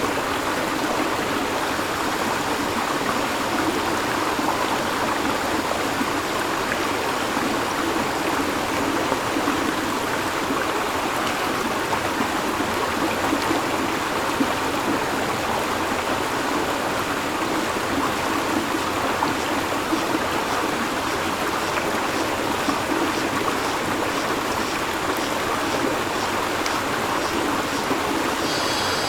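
River water flowing in a steady, even rush. From about halfway through, cicadas come in faintly as a fast regular pulsing, and near the end a louder, steady cicada buzz starts.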